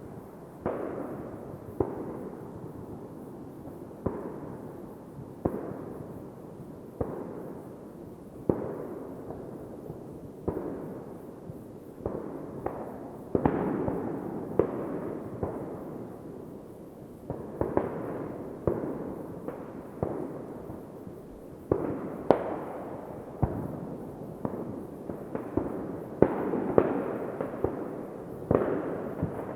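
New Year's Eve fireworks going off at a distance: a steady run of sharp bangs, about one every second or two, each trailing a long echo, coming thicker and overlapping towards the end.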